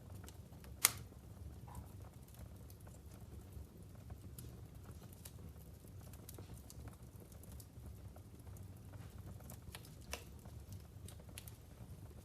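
Logs burning in a wood fireplace, crackling with scattered sharp pops over a low steady rumble of the flames; one loud pop about a second in.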